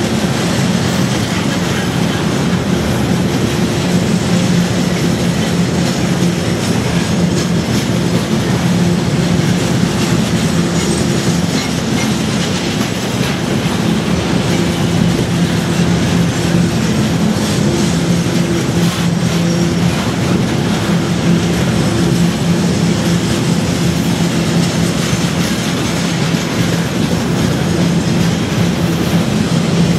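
Freight train of railway tank cars rolling past close by, with a steady loud rumble and clatter of steel wheels on the rails and a low drone underneath.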